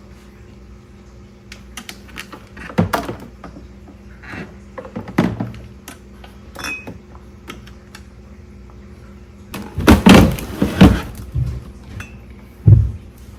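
Kitchen handling sounds: scattered knocks and clatters of dishes and containers being moved and set down, with one short ringing clink. The loudest clatter comes about ten seconds in and a low thump near the end, over a faint steady hum.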